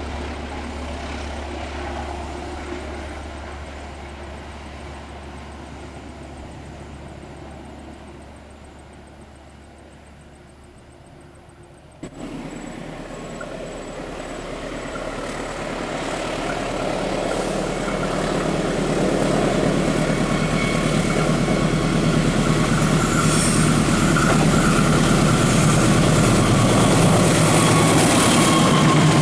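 Diesel locomotive engine on the Progo passenger train, its drone fading at first, then after a sudden jump about twelve seconds in growing steadily louder as the train comes close, with a whine that sounds like an aircraft.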